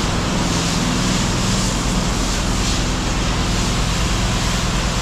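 An engine running steadily: a constant low hum with an even hiss over it, with no change in speed.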